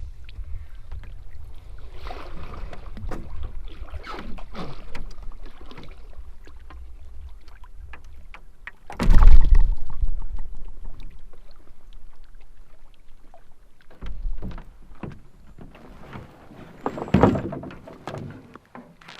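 Canoe on the water: paddle strokes swishing and light knocks against the hull, over a low wind rumble on the microphone. A loud hollow thunk comes about nine seconds in, and another near the end.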